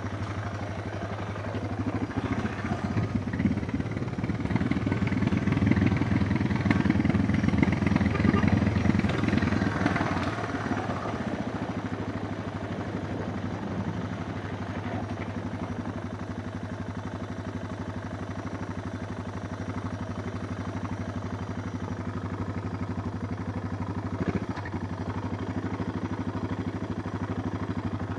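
Suzuki DR650's single-cylinder four-stroke engine running under way. It is louder and rougher for several seconds near the start, then settles to a steady, even drone.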